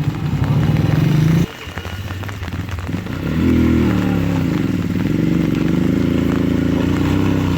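Loader rickshaw engine running at steady high revs, then dropping off suddenly about one and a half seconds in. It revs up again about three seconds in and is held there with a wavering pitch.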